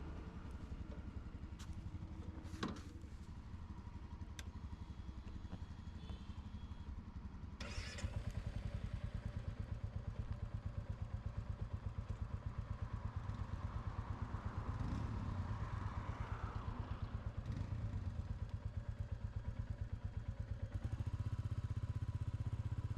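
Motorcycle engine running with a steady, low, even pulsing beat. About eight seconds in there is a sharp click, after which the engine is louder, and it grows louder again near the end.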